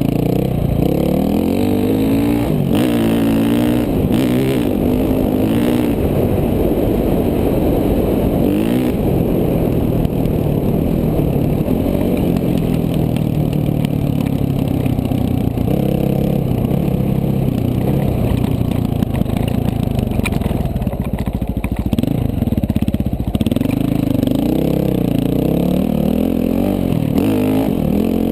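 KTM 450 dual-sport's single-cylinder four-stroke engine being ridden on a dirt trail, its pitch rising and falling again and again with the throttle.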